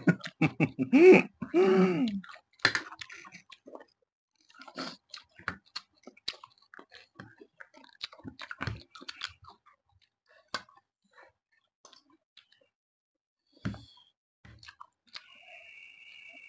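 Close-miked mukbang eating sounds: wet chewing with crunches and mouth clicks from people eating chowmein and spicy cucumber. A brief voice sound opens it, and the chewing thins out after the first half.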